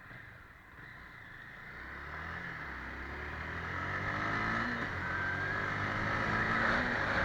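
A vehicle engine running, its sound coming in about two seconds in and growing steadily louder.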